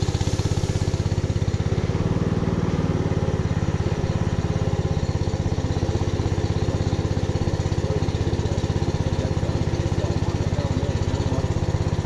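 Small boat engine running steadily at a constant speed, with a fast, even pulsing beat.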